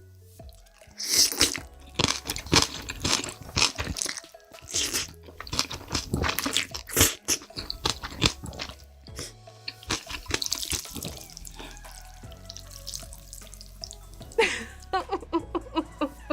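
Close-miked noodle slurping and chewing: many quick wet smacks and sucking sounds, with a run of short squeaky slurps near the end, over background music with a low bass line.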